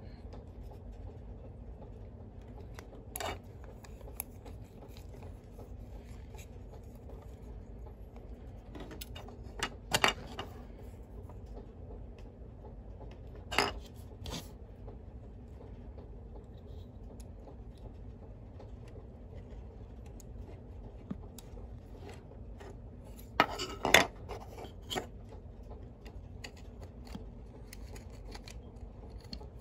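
Sparse clicks and clacks of small hard parts being handled, a few sharp ones spread through with a close pair near the end, over a steady low hum.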